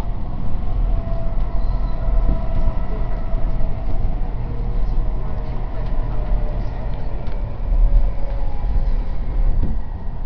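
Canada Line SkyTrain car running along the line, heard from inside: a steady low rumble of wheels and running gear with faint steady tones above it.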